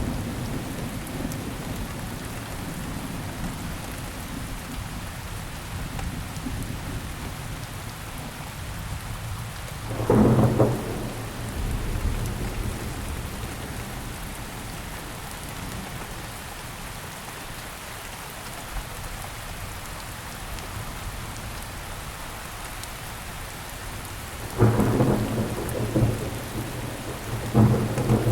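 Steady rainfall with loud claps of thunder, once about ten seconds in and twice more near the end.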